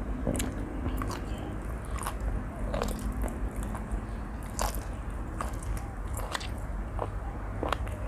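Someone eating spicy seafood instant noodles: chewing with irregular wet smacks and clicks of the mouth.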